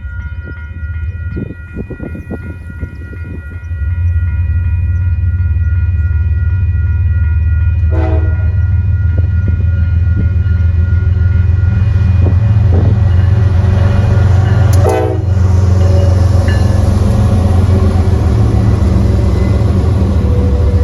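Freight train passing close by. A multi-tone train horn sounds over the first several seconds, then the locomotives' diesel engines come up in a loud, steady low rumble about 4 s in. The rumble continues as the cars roll by, with two sharp metallic clanks, one near the middle and one about three-quarters through.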